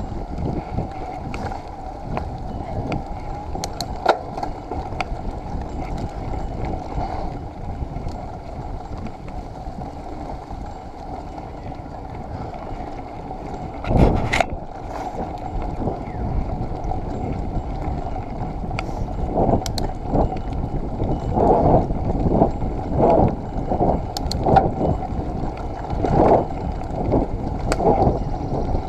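Mountain bike rolling over a wet, muddy forest trail: steady tyre and wind noise with small rattles and clicks from the bike. There is a loud knock about halfway through, and a run of short repeated surges near the end.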